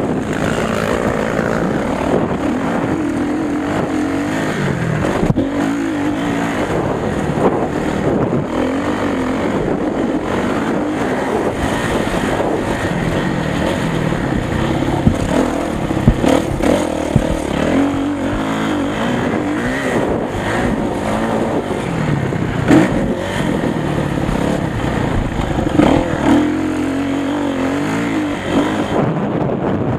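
Motocross bike engines revving up and down on the track, the pitch rising and falling over and over, with a few brief louder peaks.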